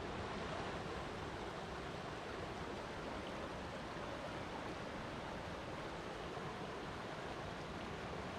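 Flowing water rushing steadily, an even unbroken hiss of a stream or waterfall.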